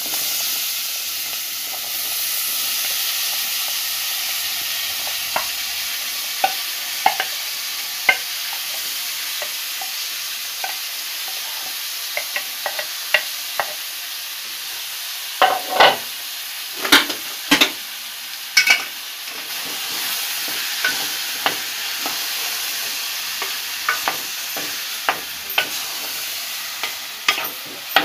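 Boiled chickpeas sizzling in hot oil and spices in an aluminium pot, stirred with a wooden spatula that knocks and scrapes against the pot. The sizzle is a steady hiss, and the spatula's knocks come thickest and loudest about halfway through.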